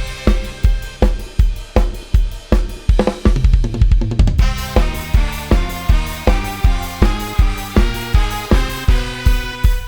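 Programmed Thai lai hae style band music: a virtual drum kit (Addictive Drums 2) with kick on a fast steady beat, snare and cymbals, over sampled bass and a melody line. A drum fill runs from about three seconds in to about four and a half.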